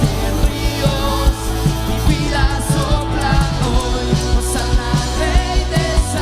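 Worship band playing a rock-style song: a steady drum beat with cymbal crashes every couple of seconds under sustained guitars and keyboards, with some singing.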